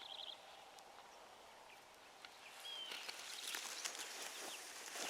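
A wounded wild turkey flopping in the brush, wings beating and rustling dry leaves. The sound starts about halfway through and grows, with a few short songbird chirps over it.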